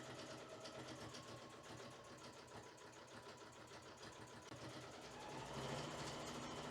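Electric sewing machine running, stitching steadily with a fast even rattle, a little louder from about five seconds in.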